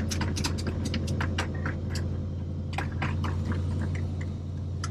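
Inside the cab of a 1996 Ford F250 on the move: a steady low engine and road drone, with many irregular clicks and rattles throughout.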